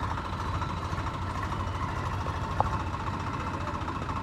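An engine idling steadily with a fast, even rumble, and a single brief click a little past halfway.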